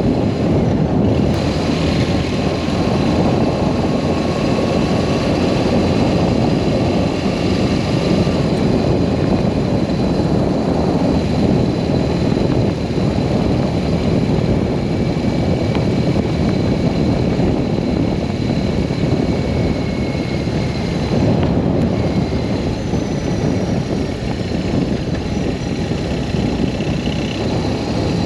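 BMW R1200S boxer-twin motorcycle running steadily under way, its engine mixed with a dense rush of wind and road noise.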